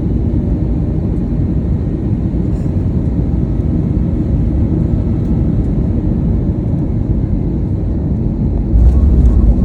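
Airbus A321neo cabin noise during landing: a steady low rumble of the engines and airflow, which jumps suddenly louder near the end.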